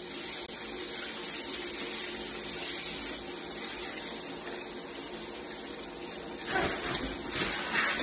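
Shower spray running steadily into a shower tray and onto a blue-and-gold macaw. Near the end there is louder splashing as the bird flaps its soaked wings in the water.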